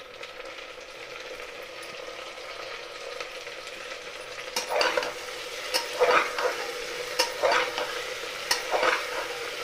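Chopped tomatoes and onions sizzling in hot oil in a pressure cooker. About halfway through, a metal spoon starts stirring, scraping the pot in repeated strokes about once a second.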